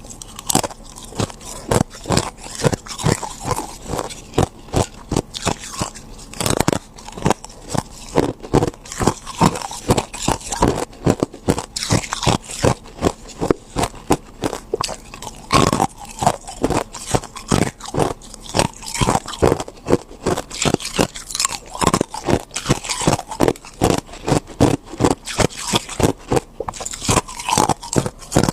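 A person biting and chewing ice, a steady run of crisp crunches at several per second.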